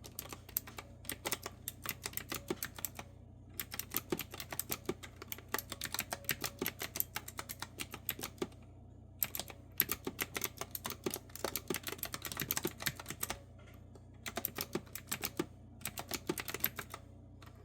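Typing on a clicky retro-style keyboard with round keys: quick runs of sharp keystrokes with brief pauses every few seconds. A faint steady low hum lies underneath.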